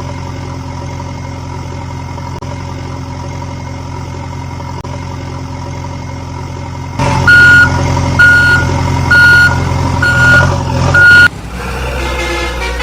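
Truck engine running steadily. About seven seconds in it grows louder and a reversing alarm beeps five times, about one beep a second. Near the end a different engine sound takes over.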